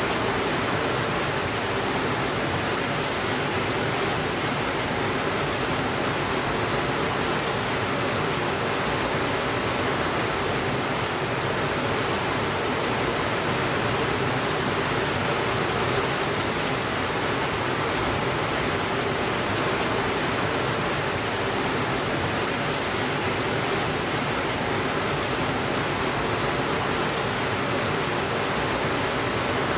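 Steady rainfall: an even, unchanging hiss with no thunder.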